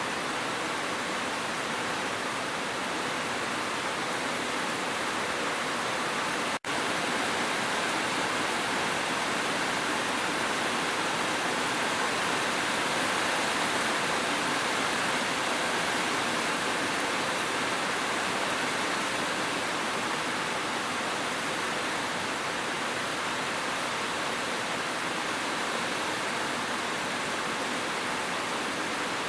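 Steady, dense rainfall hiss with no individual drops standing out. It cuts out for an instant about six and a half seconds in, then carries on unchanged.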